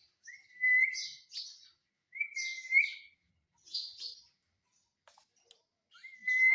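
Indian ringneck parrot vocalizing in short, separate whistly calls, four or so, each a fairly level tone with a hissing edge.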